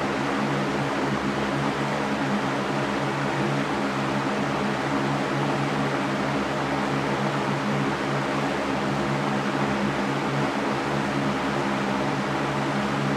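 Electric fan running steadily: an even rush of air with a low, constant motor hum.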